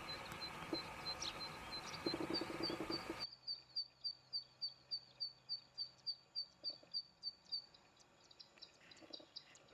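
Small birds chirping: a rapid, even run of short high chirps, about five a second, which stops about eight seconds in and gives way to scattered, irregular chirps. The background hiss drops suddenly about three seconds in.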